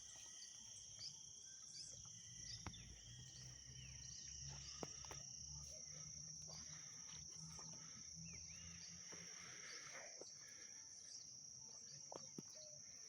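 Faint rural ambience: crickets or other insects holding a steady high trill, with scattered short bird chirps and a faint low hum through the middle.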